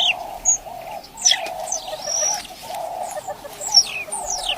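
Wild birds calling: several sharp downward-sliding whistles over a steady, wavering cooing chorus, which sounds like doves.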